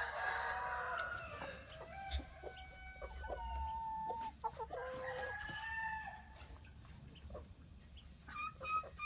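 Several roosters crowing one after another, their long calls overlapping at different pitches, with hens clucking.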